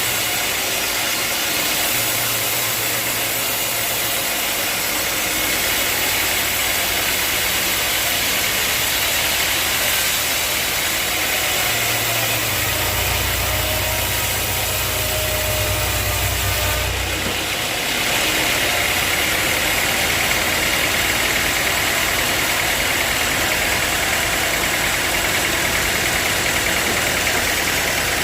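Sawmill machinery running steadily, with a low hum that grows stronger for a few seconds about halfway through.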